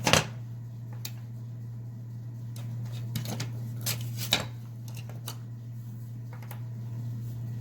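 Small plastic clicks and rattles of microwave door interlock switches being unclipped and handled in their plastic latch mount: a sharp click right at the start, then a few lighter clicks spread over the following seconds, over a steady low hum.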